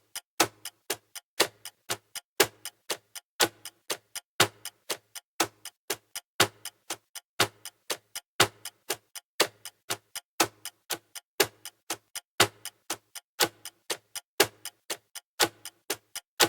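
Steady clock-like ticking of a countdown timer's tick sound effect: about four ticks a second, with a louder tick on each second.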